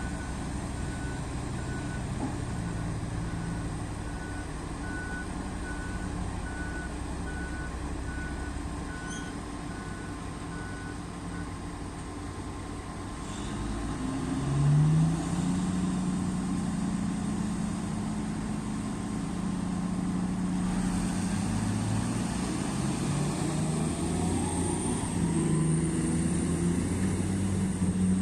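Komatsu HD785 mining dump truck's reversing alarm beeping about two times a second, then stopping. A few seconds later the big diesel engine revs up sharply and keeps running at high revs, with a rising whine near the end.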